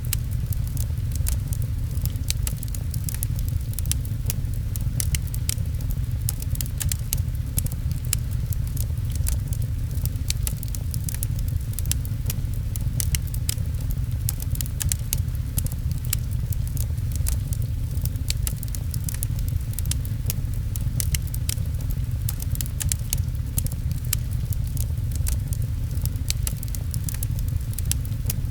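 Rain-and-fireplace ambience: a wood fire crackling with frequent small, irregular pops over a steady deep rumble and the patter of rain.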